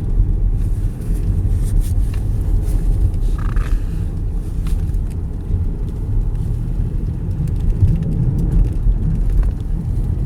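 Steady low rumble of a car driving on a snow-covered road, heard from inside the cabin, with a few faint clicks.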